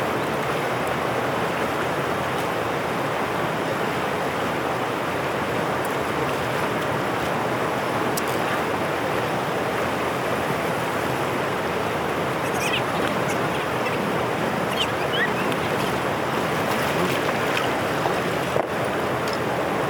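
Water rushing steadily through a drainage channel, an even unbroken rush. A few faint, short, high chirps sound in the second half.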